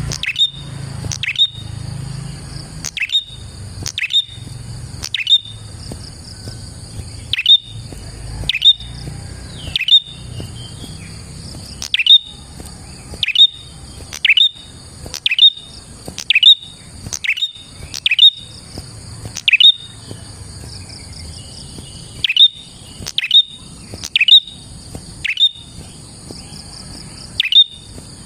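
Prinia (prenjak) calling over and over: sharp, loud chip notes about once a second, each dropping quickly in pitch. A steady high buzz runs underneath.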